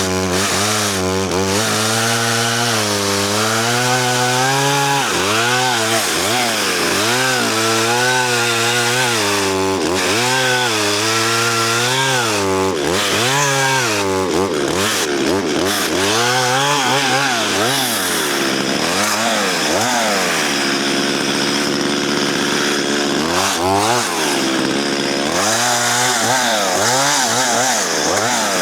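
Chainsaw cutting through a dead spruce log under load, its engine pitch dropping and recovering again and again as the bar bites into the wood. The chain is dull, throwing only small chips and struggling through the cut.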